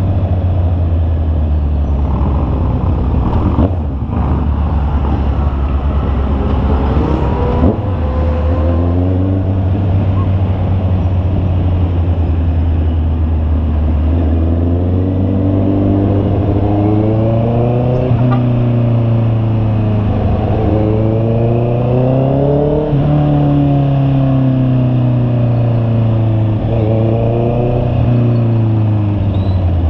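Honda CB650R's inline-four engine running under way. The pitch holds fairly steady at first, then rises and falls repeatedly in the second half as the revs change.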